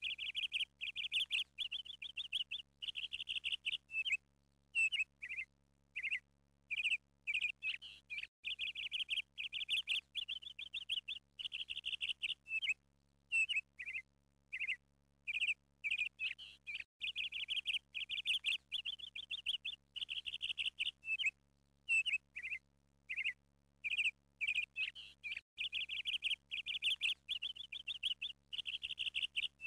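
Bird chirping and trilling in quick, repeated phrases over a faint steady low hum. The same stretch of about eight and a half seconds repeats as a loop.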